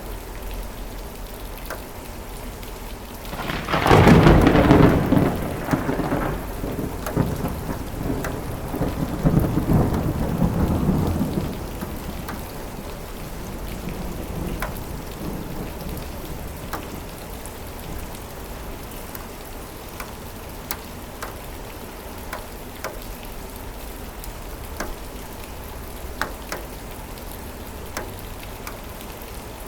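Steady rain with scattered drop ticks, broken about four seconds in by a sudden close thunderclap that rumbles on, swells again a few seconds later and dies away, leaving the rain.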